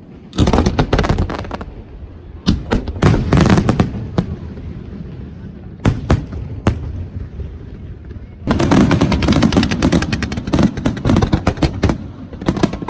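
Fireworks display: rapid volleys of sharp bangs and crackling aerial shell bursts, in three dense barrages with a couple of single loud booms between them.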